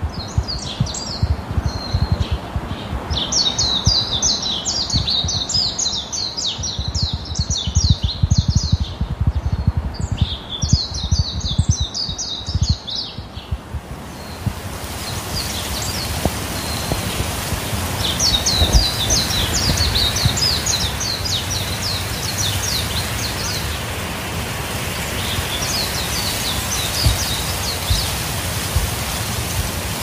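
Songbirds singing in repeated phrases of rapid high chirps. About halfway through, a steady rushing hiss of wind comes in and continues under the song.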